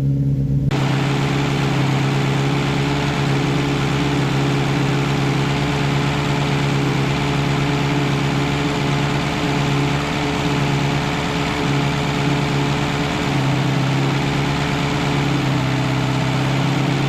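Freshly rebuilt 1311cc BMC A-series four-cylinder engine running at a steady fast idle on choke while it warms up after its first start. A steady hiss sits over it from about a second in.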